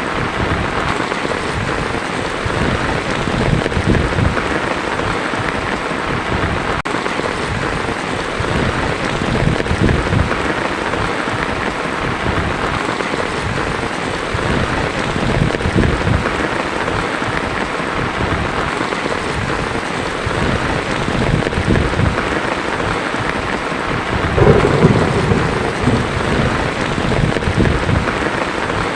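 Heavy rain falling on a tin roof in a steady hiss, with low rolls of thunder rumbling underneath; the loudest thunder swell comes near the end.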